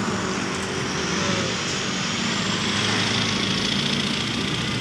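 Motor vehicle engine running steadily under road and traffic noise.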